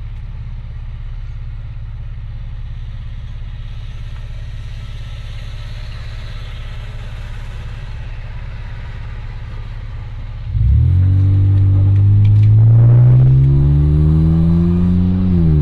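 Honda Accord engine and exhaust droning steadily at low revs, then, about ten seconds in, the car accelerates hard: the exhaust note jumps in loudness and climbs steadily in pitch for several seconds before falling back near the end as the revs drop.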